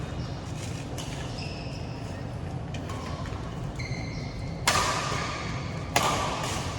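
Badminton rally: rackets striking the shuttlecock in sharp hits, the two loudest about a second and a half apart near the end, with short high squeaks of shoes on the court floor over a steady low hall rumble.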